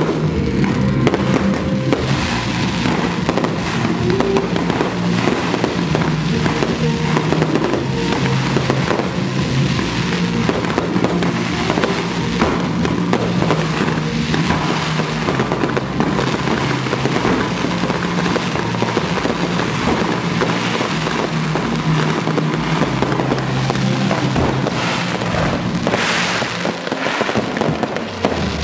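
Fireworks display: a dense, unbroken barrage of bangs and crackling, over music with low held notes.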